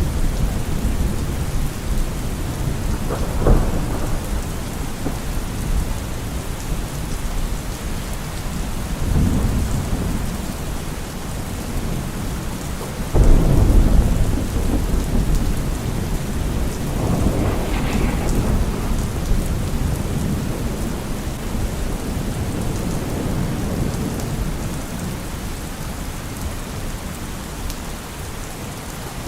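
Heavy rain falling steadily on a car roof, with several rolls of thunder rumbling through it. The loudest roll comes about halfway through.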